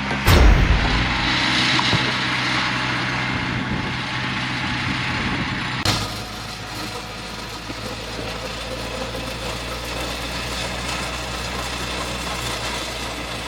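An engine running steadily, with an abrupt change in the sound about six seconds in.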